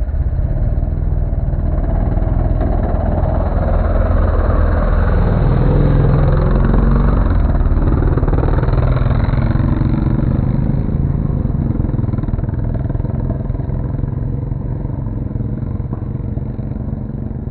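Small motorcycle engine running continuously, a little louder around the middle and easing off toward the end.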